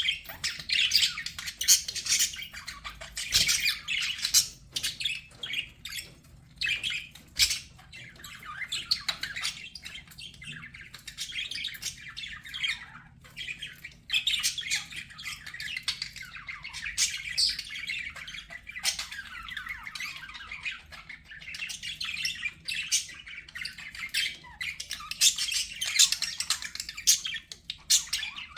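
Budgerigars chattering, warbling and squawking in a dense, unbroken stream of overlapping high chirps.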